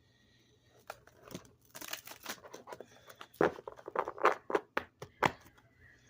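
Handling noise: a quick run of irregular clicks, taps and rustles, starting about a second in, loudest in the second half, and stopping shortly before the end.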